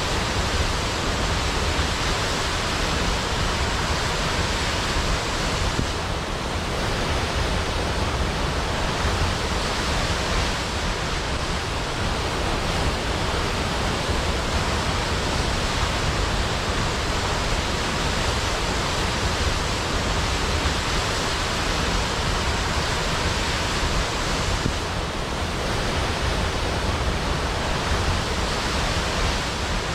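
Large waterfall, water falling and crashing as a steady, loud, even rush with a deep rumble underneath.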